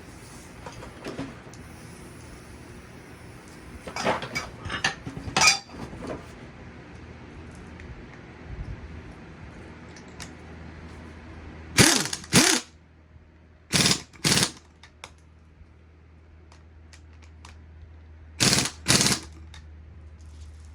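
A power wrench running a suspension bolt in and tightening it in short bursts: three pairs of bursts about half a second each, with some lighter clinks and clatter of tools and parts before them.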